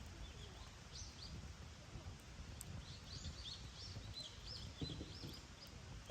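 Small birds chirping: many short, quick high notes, coming thicker in the second half, over a steady low rumble.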